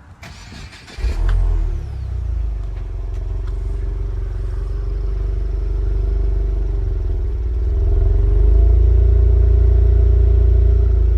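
Subaru WRX's 2.4-litre turbocharged flat-four engine cranked by the starter and catching about a second in, flaring briefly, then settling into a steady idle that rises a little near the end.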